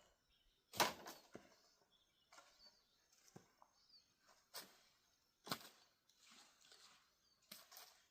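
Dry corn plants rustling and crackling in short, irregular bursts, about one every second.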